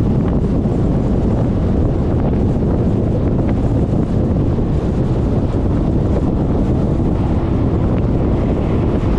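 Steady wind rushing over the microphone of a GoPro mounted on a moving Suzuki Burgman 400 scooter: a loud, even low rumble with no breaks.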